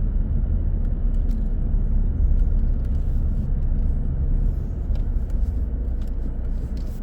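Car driving: a steady low rumble of tyres and engine.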